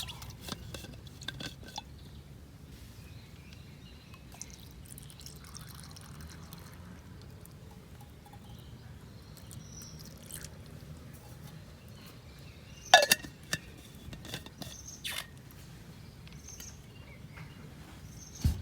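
Scattered small clicks and knocks of objects being handled, with a sharp, louder clink about thirteen seconds in, a few lighter ones just after, and a low thud near the end.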